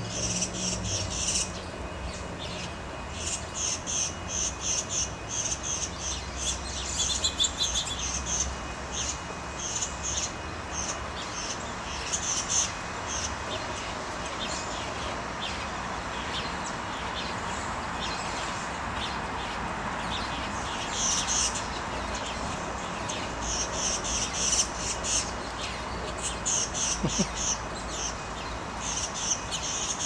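Small songbirds chirping: runs of short, high chirps repeat in clusters every few seconds over a steady background hiss.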